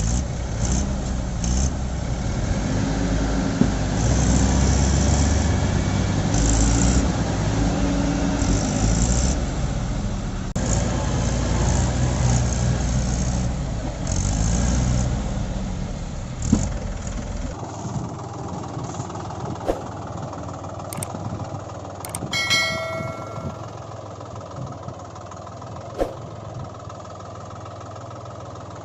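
Engine-like vehicle running sound, a heavy uneven rumble that drops away sharply about two-thirds of the way through, followed by quieter running with a few light clicks.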